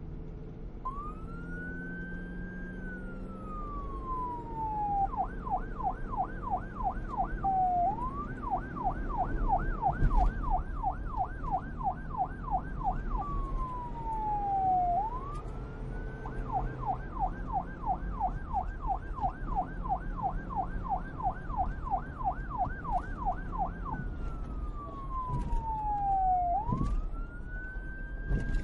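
Electronic police siren switching between a slow wail, which rises and then falls away slowly, and a fast yelp of about five quick up-and-down sweeps a second. It changes back and forth several times over a low rumble.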